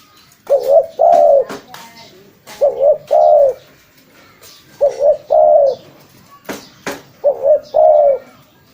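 Spotted dove (tekukur) cooing: the same phrase four times, about every two seconds, each a quick double coo followed by a longer arched coo. A few sharp clicks fall between the phrases.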